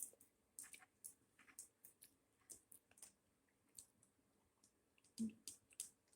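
Faint, irregular clicks of a person eating: soft mouth and chewing clicks, about a dozen spread unevenly, with a duller knock about five seconds in.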